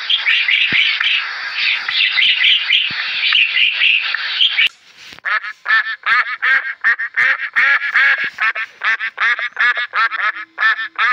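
Waterfowl calling in a fast run of short nasal quacks, about four a second, starting about five seconds in. Before that there is a dense, steady, high-pitched background chorus.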